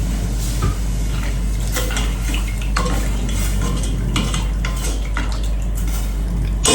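Cutlery clinking against dishes in a series of light, irregular clicks over a steady low hum.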